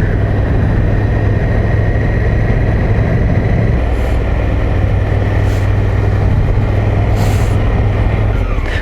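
Dual-sport adventure motorcycle engine running at a steady cruise on a dirt road, with wind and road noise over it and no change in pace.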